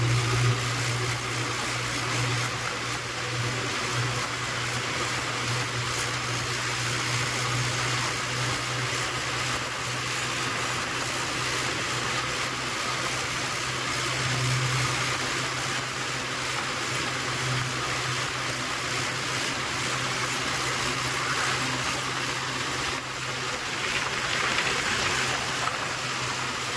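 Tractor engine running steadily with a low, even drone, over a constant hiss.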